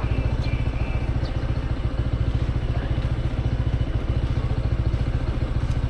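Motorcycle engine idling steadily, an even, rapid low putter.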